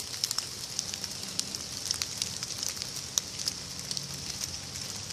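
Rain falling: a steady hiss with many separate, irregular ticks of drops striking close by.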